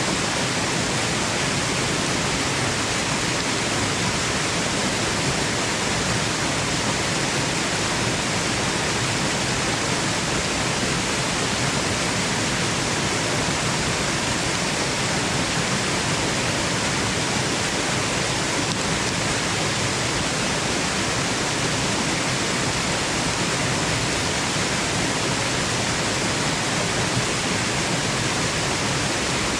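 Waterfall: falling water rushing steadily as an even, unbroken hiss with no change in level.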